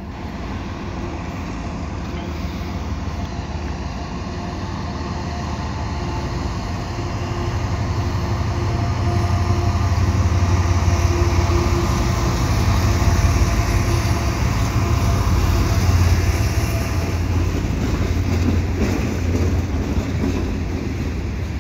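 Freight train led by CN GE diesel locomotives approaching and passing close by. The engines' low drone builds over the first ten seconds and is loudest as the locomotives go past. Near the end it eases a little to the rolling of covered hopper cars.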